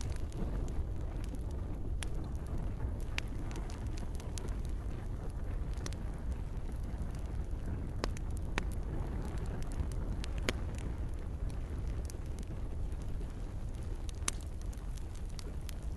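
Campfire crackling: scattered sharp pops and snaps, a few louder than the rest, over a steady low rumble of burning, with gentle rain.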